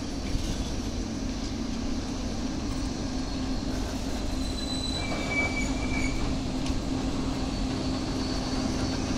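Open-top freight wagons rolling past on steel rails: a steady rumble of wheels on track, with brief high-pitched wheel squeals about halfway through.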